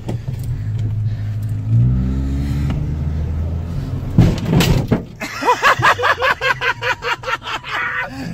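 Car engine heard from inside the cabin, running steadily and then revving up with a rising pitch as the car pulls away. A little past halfway there is a loud thump, followed by a man laughing in quick repeated bursts.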